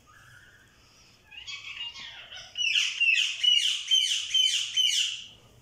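A bird calling: a few softer chirps, then a loud run of about six quick downward-sweeping calls lasting some two and a half seconds.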